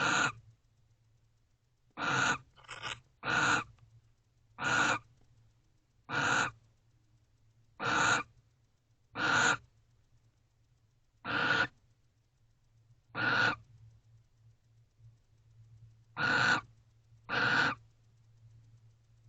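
Barn owl in a nest box giving short calls, about a dozen at uneven gaps of one to two seconds, each about half a second long, over a faint steady low hum.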